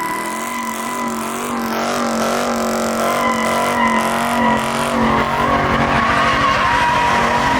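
Car tyres squealing in a steady high whine as a car slides under power, with its engine running hard underneath, the engine note wavering up and down.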